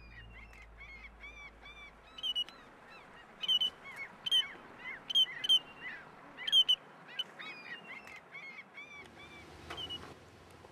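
Birds calling: a run of short, repeated chirping notes, several a second, loudest in the middle stretch, over faint background noise.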